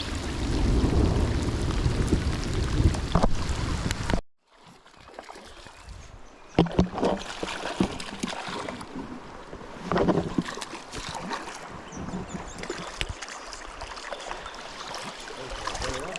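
Rushing river water with wind buffeting the microphone, cut off abruptly about four seconds in. Then quieter running water with scattered clicks and knocks.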